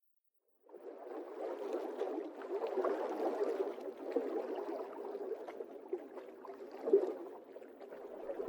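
Gurgling, flowing water starting suddenly under a second in, an uneven wash with small scattered splashes and clicks.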